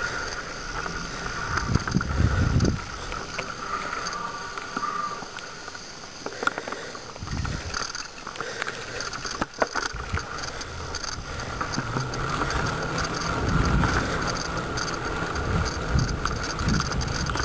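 Wind buffeting the microphone during a bicycle ride, coming in low rumbling gusts, over a steady whir from the moving bike. A few sharp clicks sound about ten seconds in.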